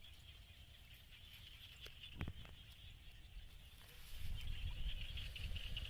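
Outdoor rural ambience: a steady high-pitched buzz, with a single click about two seconds in and a low rumble that grows louder about four seconds in.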